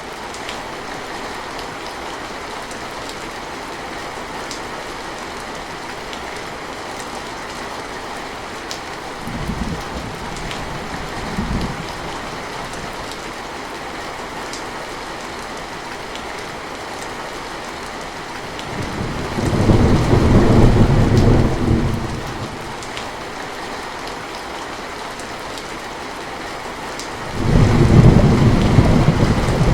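Steady rain falling, with thunder rumbling over it: two short low rumbles around ten seconds in, a longer, louder roll about twenty seconds in, and another loud rumble near the end.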